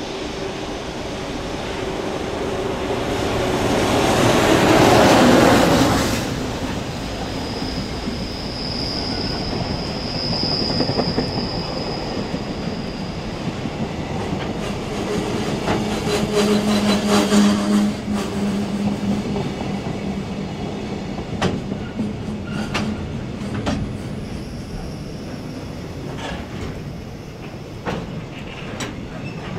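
Container freight train passing below: the loudest moment, about five seconds in, is the head of the train going under, and then a string of container flatcars rolls by. A thin high wheel squeal lasts several seconds, and later the wheels give irregular clacks over the rail joints.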